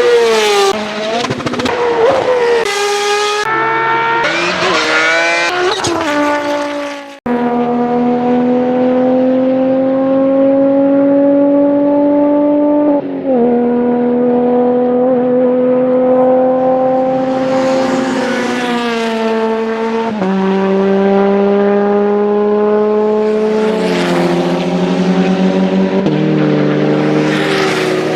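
Race car engines at full throttle heard from a distance. First, cars go by with their engine pitch swinging up and down through gearshifts. After a sudden cut, a single engine accelerates steadily, its pitch climbing slowly and dropping at each of about four upshifts.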